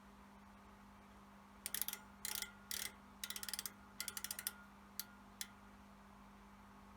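Faint runs of rapid, sharp clicking, several short bursts between about two and five and a half seconds in, over a steady low hum.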